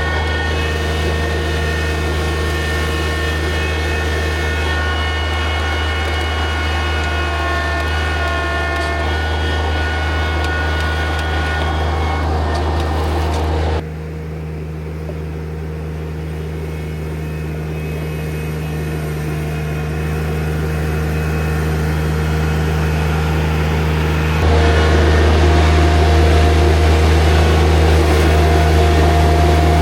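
New Holland TZ22 compact tractor's diesel engine running steadily while working gravel, with a strong low hum and a few steady higher whines. The sound drops abruptly about a third of the way in, builds slowly, then jumps back louder near the end.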